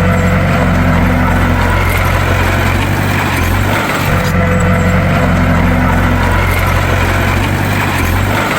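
Bulldozer's heavy diesel engine running steadily, with a brief dip in its low rumble about every four seconds.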